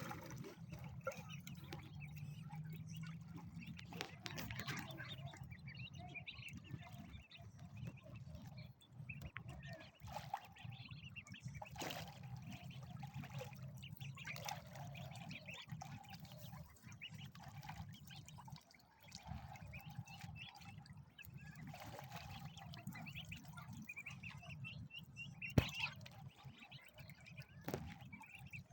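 Ducks feeding in water, splashing and dabbling with occasional soft quacks, over a steady low background hum. A single sharp click sounds near the end.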